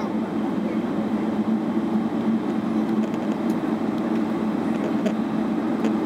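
Steady cabin drone of a Boeing 777-300ER: the GE90 engines and the air system, heard from inside the passenger cabin, with a constant low hum and no change in pitch.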